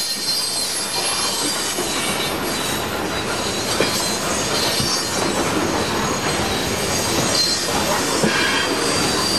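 Coal train's hopper cars rolling past, a steady rumble and clatter with high wheel squeal and a couple of sharp clanks.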